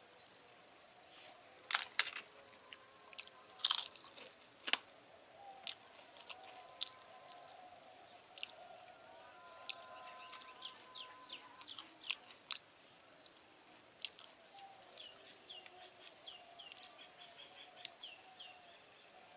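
Mouth-close chewing of a meal, with a few loud crisp crunches in the first five seconds as a fried papad is bitten, then softer wet chewing and lip clicks. Near the end a bird chirps quickly and repeatedly in the background.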